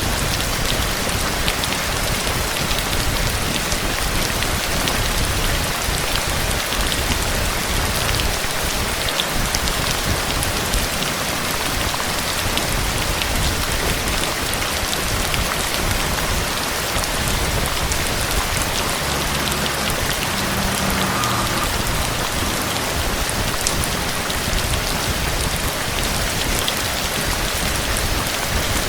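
Steady heavy rain falling on a surface, with a dense patter of individual drops ticking through it.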